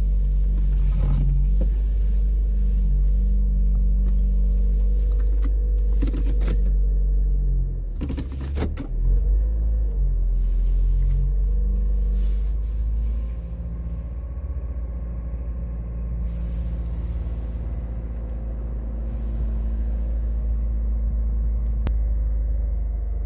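2023 Toyota Corolla LE's four-cylinder engine idling after a cold start in freezing weather, heard from inside the closed cabin as a steady low rumble. It gets a little quieter about halfway through, with a few brief knocks just before.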